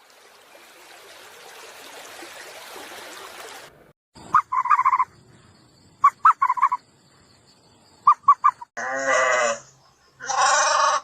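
Two long bleats near the end, after a few groups of short, high calls and an opening stretch of hiss.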